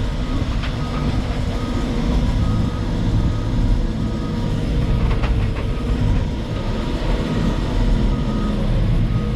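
Diesel engine of a Terex FD4000 front-discharge concrete mixer idling, a steady low rumble heard from inside the cab, with faint short beeps at times.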